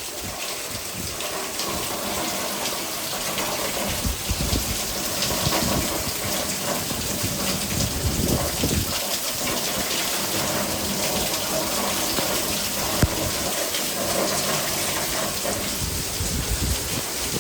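Heavy thunderstorm rain pouring down in a steady hiss, with strong wind gusts buffeting the microphone in uneven low rumbles. One sharp knock about two-thirds of the way through.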